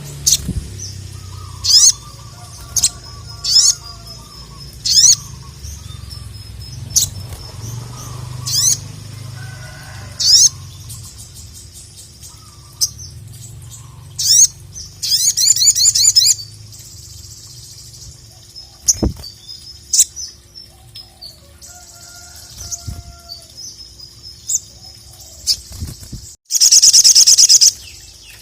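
Sogon (sogok ontong) singing in an energetic burst. It gives a series of short, sharp, high-pitched notes about a second apart, then a fast trill about halfway through and a loud, rapid trill near the end.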